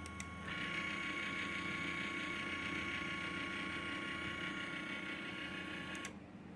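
Small brushless motors of a 3B-R miniquad running with a steady high whine and hiss. They get louder about half a second in and cut back sharply near the end. The owner calls it insane noise for such a small motor and thinks the bearings are worn out.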